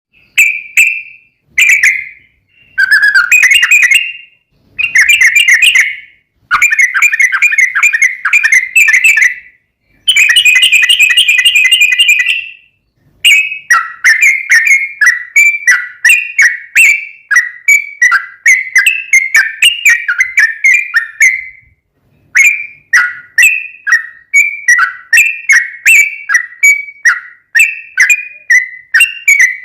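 Trucukan (yellow-vented bulbul) singing loudly in rapid, bubbly phrases. The first half comes in separate bursts a second or two long; from about halfway it becomes a long, almost unbroken run of quick repeated notes.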